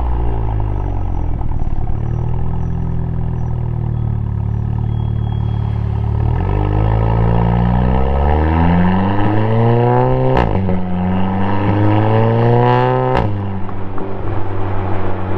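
Audi S3's turbocharged 2.0-litre four-cylinder through a 3-inch single-exit exhaust with a single resonator, running steadily at low revs and then accelerating hard from about six seconds in. The pitch climbs, breaks with a sharp pop and drops at an upshift about ten seconds in, climbs again, and drops at a second upshift a few seconds later.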